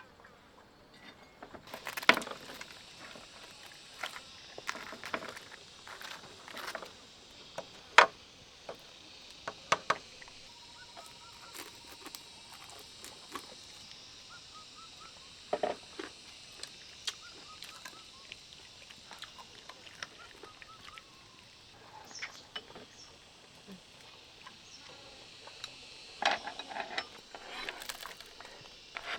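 Scattered sharp taps and knocks, the loudest about two and eight seconds in, over a steady high outdoor hiss with a few short bird chirps.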